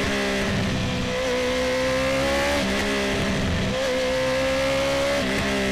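Honda CB650R's inline-four engine through an Akrapovic full titanium exhaust, running under light throttle while riding. Its pitch rises slowly and drops twice, about two and a half seconds in and again near the end.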